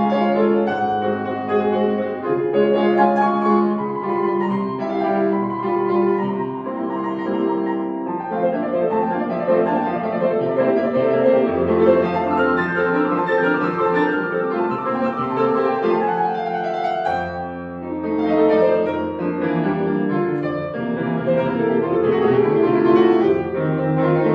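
Solo piano playing a classical piece, with quick runs of notes over held bass notes.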